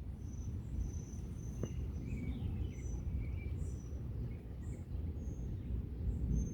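Outdoor ambience: a steady low rumble with scattered short, high chirps, and a single click about a second and a half in.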